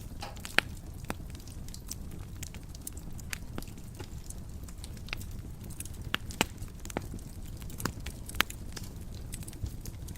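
Wood fire in a fireplace crackling, with irregular sharp pops and snaps over a low steady rumble of flame; a few louder pops stand out, one about half a second in and others near the middle and toward the end.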